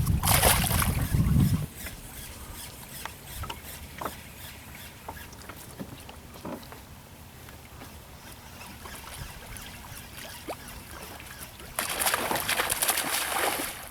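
Wind buffeting the microphone for the first second and a half or so, then a quieter stretch with scattered light ticks and taps, and a loud hissing burst near the end.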